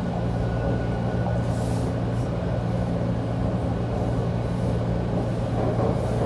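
TTC T1 subway car running along the track, heard from inside the car: a steady rumble with a low, even motor hum.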